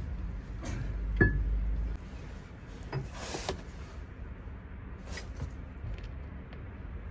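Tools and metal parts being handled: a sharp, ringing metal clink about a second in, then scattered knocks and clatter, over a low hum that stops about two seconds in.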